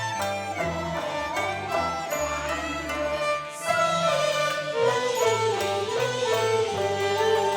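Cantonese opera accompaniment ensemble playing an instrumental interlude, with bowed strings carrying a wavering melody over a steady bass.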